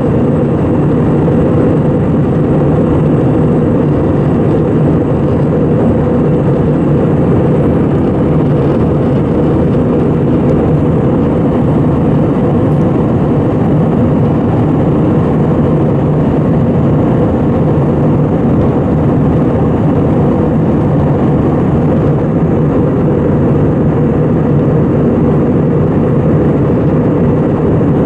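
Steady engine and airflow noise heard inside the cabin of an Airbus A320, a low even rumble that holds level throughout.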